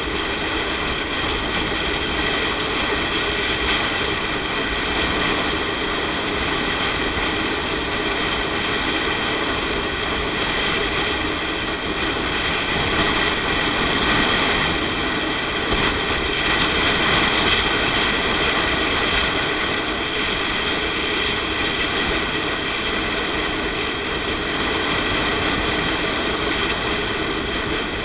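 Motorcycle riding at a steady speed: the engine runs evenly under constant road and wind noise on the rider's camera microphone.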